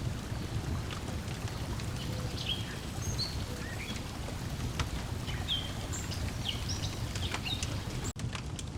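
Layered lakeside nature ambience: a steady low rush of water lapping on the shore, small birds chirping on and off, and scattered sharp pops of a crackling wood fire. The sound cuts out for an instant near the end.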